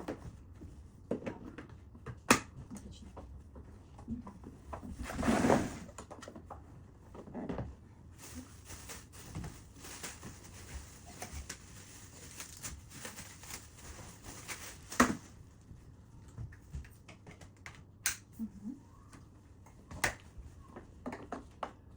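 Plastic parts of a new vacuum cleaner being handled: scattered clicks and knocks, a noisy swell a few seconds in, and a stretch of rustling in the middle.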